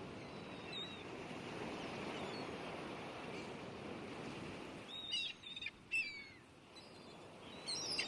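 Bird calls: short, falling chirps, a few early and a quick cluster about five to six seconds in, over a steady rush of outdoor background noise.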